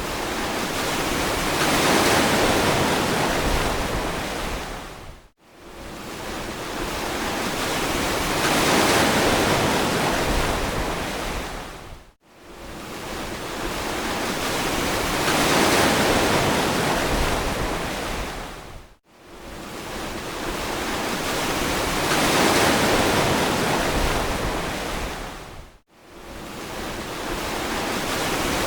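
Ocean surf: waves breaking and washing up the beach in a regular rhythm, one about every seven seconds. Each wave swells to a rushing peak and then fades, with a sudden brief dip to silence between waves.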